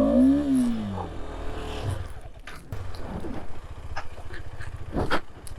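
Motorcycle engine revving up and dropping back in the first second, then running low with scattered clicks and a sharp knock near the end.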